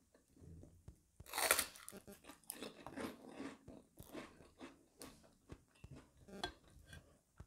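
A person chewing and crunching fried tofu and tempe in short irregular crackles, with one louder crisp crunch or rustle about a second and a half in.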